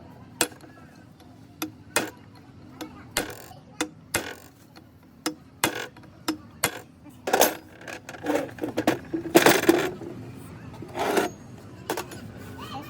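Irregular metallic clinks and knocks, metal tools and parts being handled, with a few longer scraping noises in the second half.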